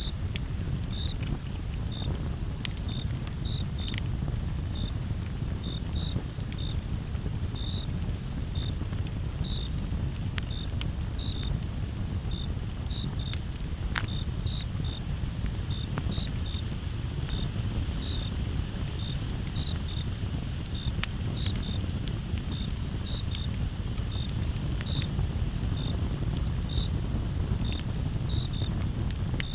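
Crickets chirping in short pulses about twice a second over a steady high insect trill, with a campfire crackling in scattered sharp pops, one louder pop about halfway through. A low steady rumble runs underneath.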